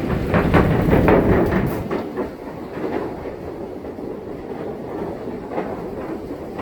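Wheels rolling over a jointed or planked surface: a steady rumble with a rapid rattling clatter, loudest in the first two seconds, then settling to a lower rumble.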